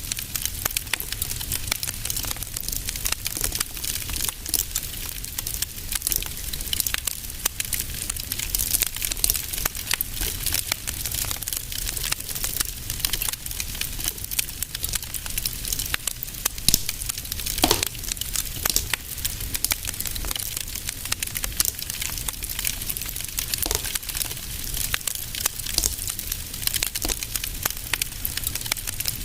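Fire in a fireplace crackling steadily with many small snaps, and one sharper pop a little past the middle.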